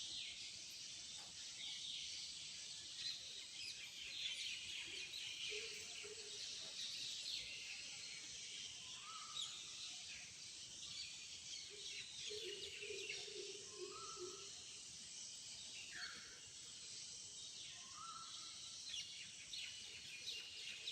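A dense chorus of many birds chirping and calling together. A lower call of several quick notes breaks in a few times.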